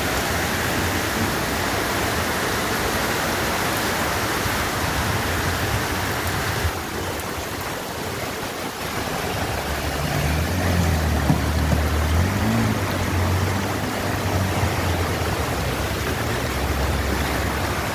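Floodwater rushing through an overflowing canal in a steady, heavy rush. The sound changes about seven seconds in, and a low rumble joins it in the second half.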